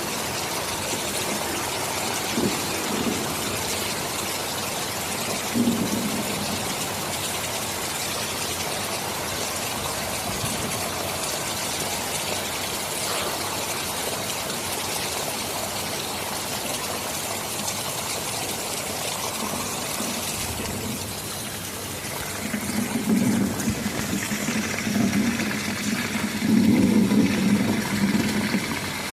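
Steady heavy rain, with low rolling thunder rumbling in about two-thirds of the way through and growing louder near the end.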